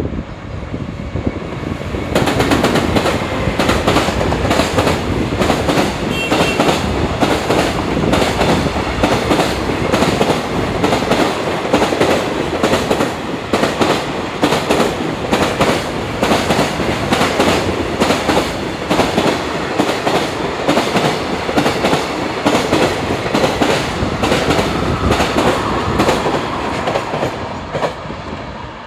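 Freight train of Koki container wagons hauled by an EF210 electric locomotive passing close by, wheels clattering over the rail joints in a rapid run of clicks. It rises sharply about two seconds in and eases off near the end as the last wagons go by.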